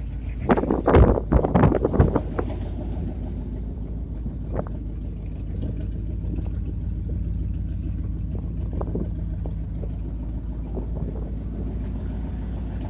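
1967 Ford F350 truck engine idling steadily just after starting, with a few knocks or clatters in the first couple of seconds.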